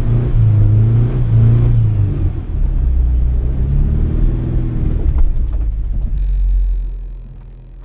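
A four-wheel drive's engine working under load on a slippery climb, its revs rising and falling. It eases off and fades away near the end.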